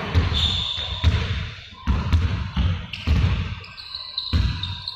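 Basketballs being dribbled on a hard court floor: low thumps about two to three a second, with short high squeaks over them.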